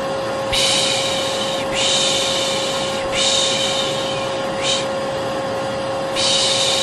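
Vacuum cleaner running with a steady hum, while a person makes rhythmic 'shh' shushing sounds over it, about five shushes each lasting around a second, the last one near the end. This is shushing over a vacuum's steady noise to lull a baby to sleep.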